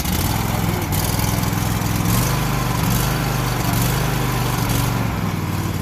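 Lawn mower's small gasoline engine running steadily at a fast idle.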